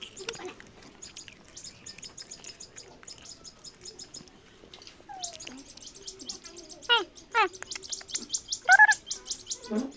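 Pet parrots chirping in fast runs of short, high notes, with a few louder gliding calls in the second half, the loudest just before nine seconds in.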